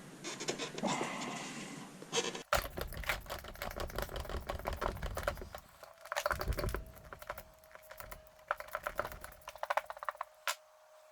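Rapid light clicks and rattles of small metal parts and hand tools being handled while a shifter is worked on, with a faint steady tone from about six seconds in.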